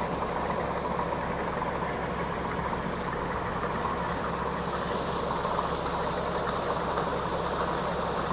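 Farm machinery engine running steadily at a constant speed while a wagon of soybeans is emptied into the bin.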